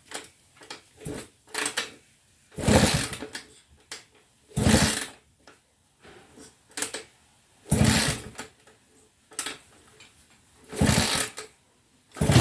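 A machine run in about five short bursts of roughly a second each, a rapid rattling buzz with quiet gaps of one to two seconds between.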